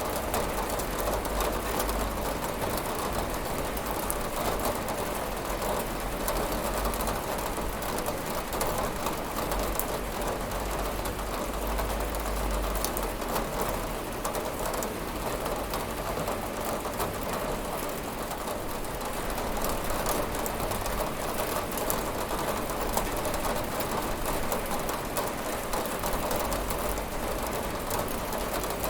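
Steady heavy rain pattering on a window pane, a dense even hiss of drops. A low rumble comes and goes underneath.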